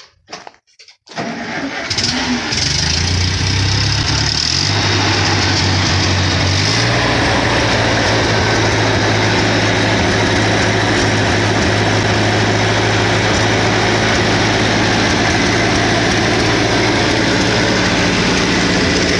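A 1951 Ferguson TO-30 tractor's four-cylinder petrol engine is started on the starter and catches about two seconds in. Its note shifts a couple of times over the next few seconds as it settles, then it runs steadily.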